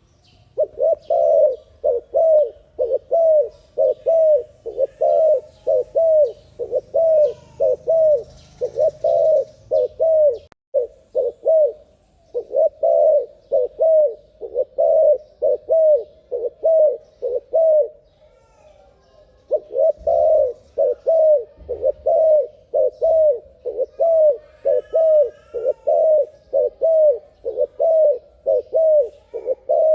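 Spotted dove (terkukur) cooing in a fast, unbroken series of short notes, about two a second, pausing briefly twice. Faint chirps from another small bird come in around the middle of the last run.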